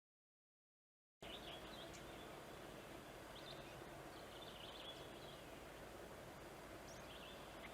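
After about a second of dead silence, faint outdoor background with a bird's short high chirps, repeated a few times.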